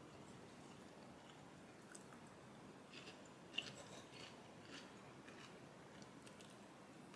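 Faint eating sounds: chewing and light crunching, with soft clicks of a fork against a bowl, the sharpest about three and a half seconds in.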